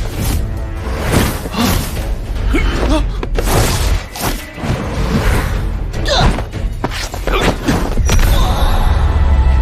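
Dramatic background music over fight sound effects: a string of heavy thuds, crashes and shattering impacts, giving way to a sustained low drone near the end.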